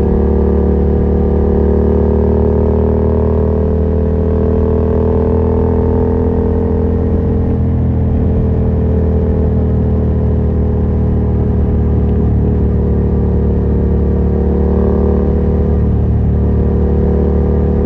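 Yamaha MT-07's 689 cc parallel-twin engine running loud through a Yoshimura R77 exhaust with no dB killer, held at fairly steady revs. Its pitch rises a little and eases off again in the first half, then lifts briefly near the end.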